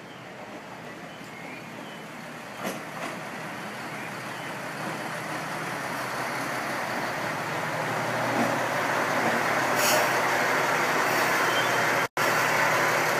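KiHa 100 diesel railcar pulling into a station, its engine and running noise growing steadily louder as it approaches, then holding steady. A short hiss comes about ten seconds in, and the sound drops out for an instant near the end.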